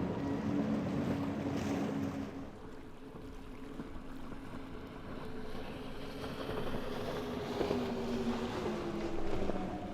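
Motorboat engines running as boats pass through choppy water, with wind on the microphone and the wash of waves. One engine drone fades about two and a half seconds in, and another builds later, its pitch slowly falling.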